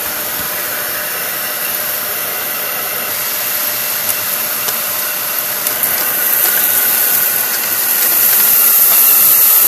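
Kenmore 600 series bagless vacuum cleaner running with its power nozzle on a hardwood floor, picking up sand from the floor cracks: a steady hissing whine that grows louder in the second half. It doesn't sound very pretty, as if the nozzle's plastic bottom plate is scratching the floor.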